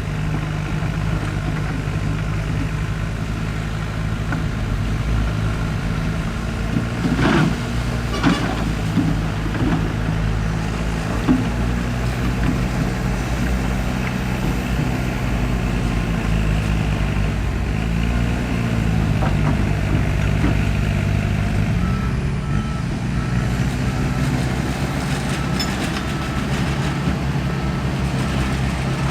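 Diesel engine of a heavy earthmoving machine running under load, its pitch dipping and rising a few times, with a few metallic knocks about a quarter of the way in. In the last few seconds a reversing alarm beeps steadily over it.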